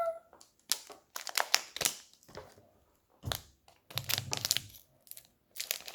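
Plastic toy packaging being handled and crinkled in irregular rustles and crackles as a blind pack is opened, with a dull thump about three seconds in.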